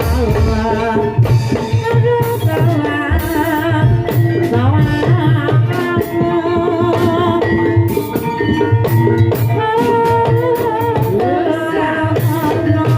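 Javanese gamelan playing kuda kepang (ebeg) accompaniment: steady tuned tones over quick drum strikes, with a wavering sung melody.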